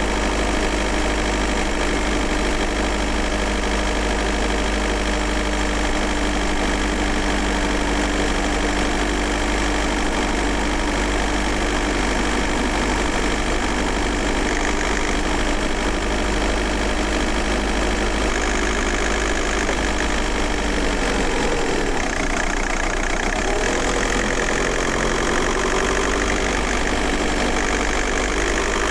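VW Golf Mk4 1.9 TDI four-cylinder turbodiesel running steadily, heard from inside the car. About three quarters of the way through, the engine note dips and then climbs again as the revs rise.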